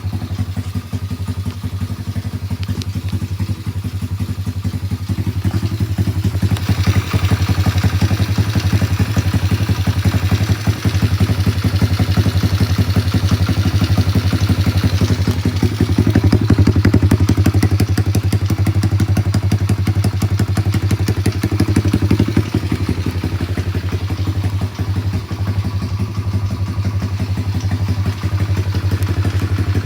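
Thumpstar 125 pit bike's single-cylinder four-stroke engine running steadily after being kick-started, a little louder from about six seconds in.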